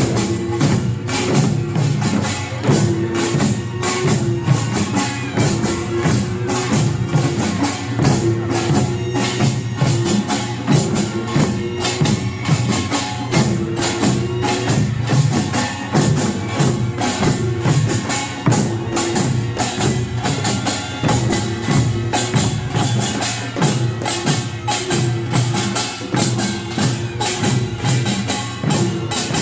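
Pungmul percussion band playing at speed: kkwaenggwari small gongs clanging in a fast, dense rhythm over janggu hourglass drums and buk barrel drums, with a low gong tone from the jing that recurs every second or two.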